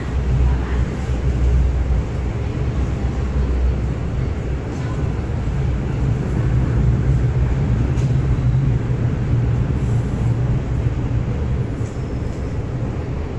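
MTR Tsuen Wan Line M-train running into a station platform: a steady, low rumble of wheels on rail and traction equipment.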